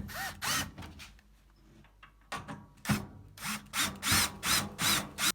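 A hand tool working in repeated short scraping strokes, about a dozen in all. The strokes are irregular at first, then settle into a run of about three a second.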